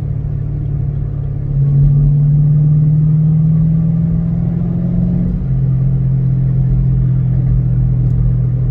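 2006 Ford Mustang GT's 4.6-litre V8 heard from inside the cabin while driving. About a second and a half in it gets louder and climbs slowly in pitch under acceleration, then drops to a lower steady note as it is shifted up a gear. The owner finds it unusually loud.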